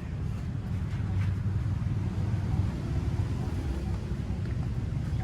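Steady low rumble of a running vehicle, with a few faint ticks on top.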